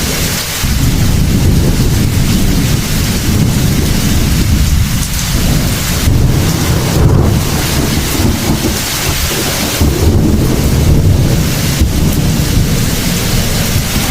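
Heavy thunderstorm: steady, heavy rain with thunder rumbling through it.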